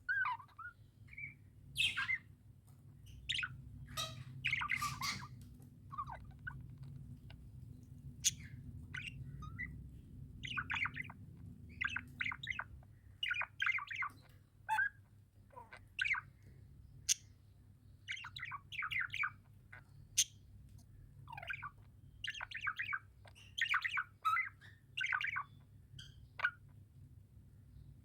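Budgerigars chirping and chattering: short high chirps and quick runs of warbling notes, on and off, over a steady low background hum.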